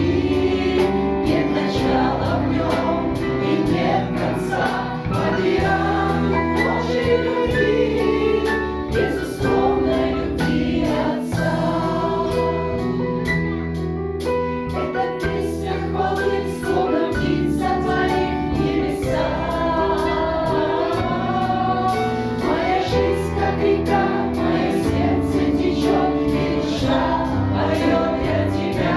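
Choir singing a Christian song of praise, with held chords over a steady low bass line.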